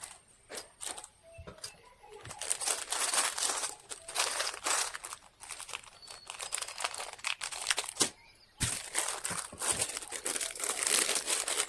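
Crinkling and rustling in irregular bursts, mixed with a few sharp clicks.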